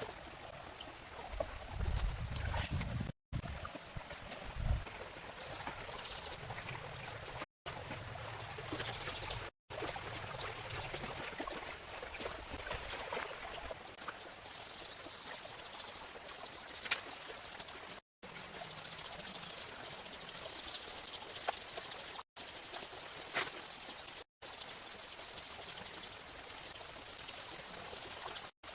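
Steady high-pitched insect drone over a faint trickle of water, with a few low thuds a few seconds in and an occasional sharp click.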